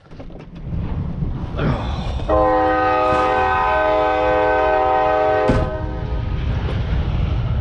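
Train horn blowing one long held chord of several tones, about three and a half seconds, over a steady low rumble.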